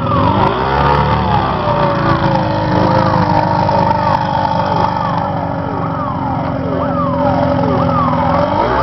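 F2000 racing powerboat outboard engines running at high revs, several at once, with their pitch dropping sharply again and again.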